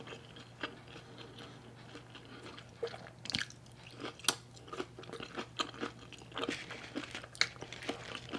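Close-miked chewing and wet mouth sounds of a person eating by hand, with irregular small crunches and clicks, a few louder ones around three to four seconds in and again near seven seconds.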